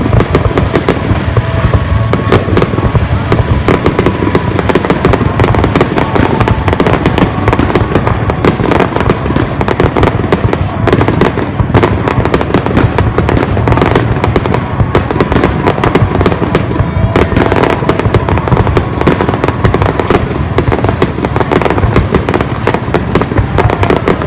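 Fireworks display: a dense, unbroken barrage of bangs and crackling pops, many bursts every second.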